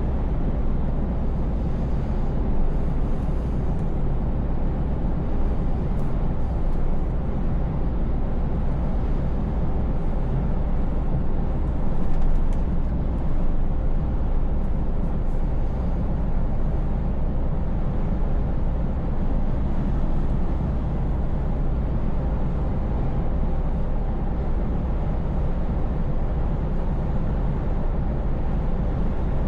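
Scania S580 truck cruising, with the steady low drone of its V8 engine and road noise. The sound swells slightly about twelve seconds in.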